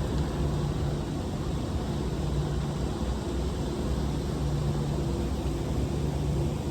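A semi truck's diesel engine running steadily with road noise, a continuous low drone.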